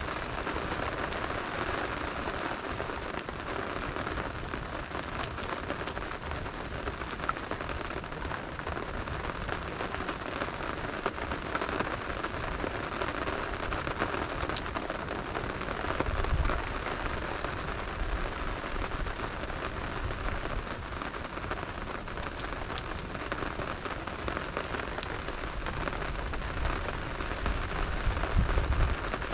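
Steady rain falling and pattering on a surface, with scattered sharp ticks of drops or crackles. Brief low rumbles come about halfway through and again near the end.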